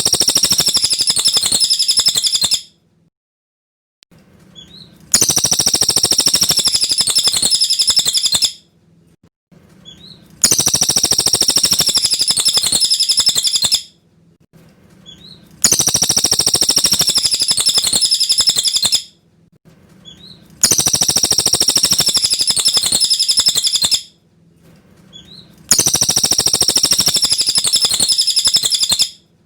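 Cililin bird song: a rapid, high-pitched twittering phrase about three seconds long, repeated six times almost identically, with short silent gaps between, as in a looped master recording for training songbirds.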